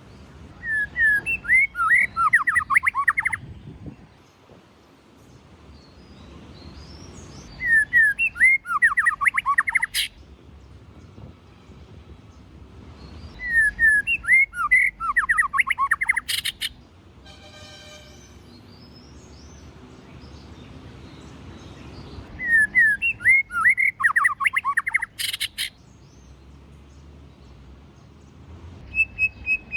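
White-rumped shama singing: four similar phrases of quick whistled notes, each about three seconds long and several seconds apart, several of them ending in a sharp click.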